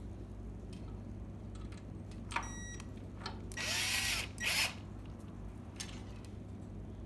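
Power drill-driver run in two short bursts about halfway through, spinning up and down, with a brief whir and small clicks just before it.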